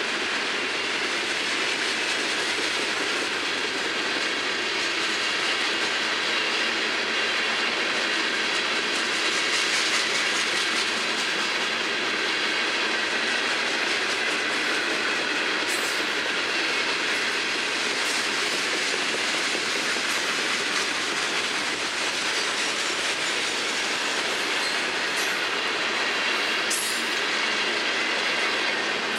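Freight cars of a long Florida East Coast Railway train rolling past at steady speed: the continuous rumble and rattle of loaded hopper cars' steel wheels on the rails, with a few sharp clicks in the second half.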